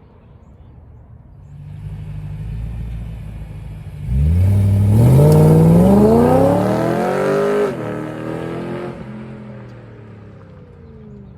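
BMW E93 M3's V8 with an aftermarket valved exhaust accelerating hard past, its note rising steadily in pitch for about four seconds. The note then cuts off sharply and fades away as the car moves off.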